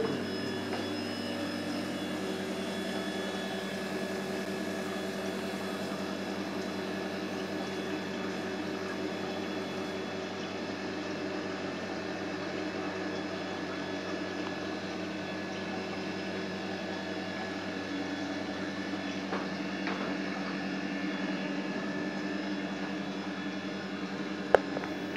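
Radiator-flushing pump machine running with a steady electric-motor hum, pumping cleaning fluid through the central-heating radiators. A single sharp click near the end.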